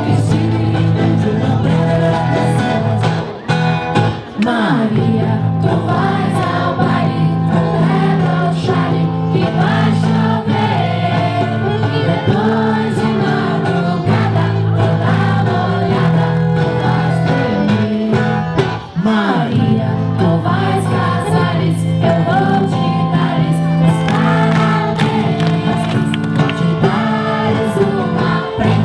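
A group singing a song together with instrumental accompaniment, with brief pauses between phrases.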